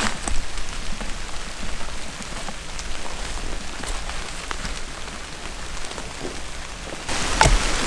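Rain falling steadily, with scattered drops ticking. About seven seconds in it turns louder and brighter, with a few sharp taps.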